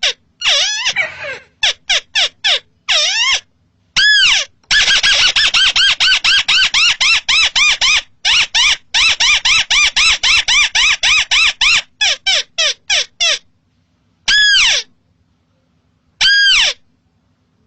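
Crake (burung tikusan) calling: a fast run of rising-and-falling notes, about six a second, that stops and starts again, then two single separate calls near the end.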